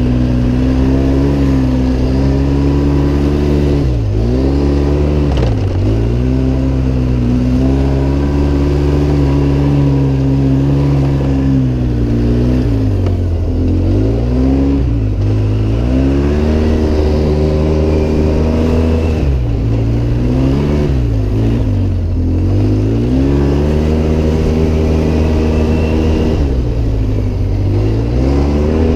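Off-road vehicle engine running hard under load, its revs dropping briefly and climbing back again several times as the throttle comes off and on.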